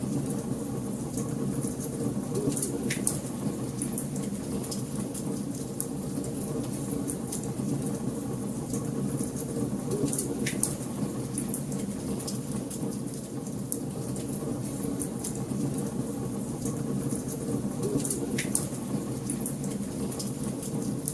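Wood fire burning in a fireplace: a steady low rumble of flames with frequent small crackles, and three sharper pops about eight seconds apart.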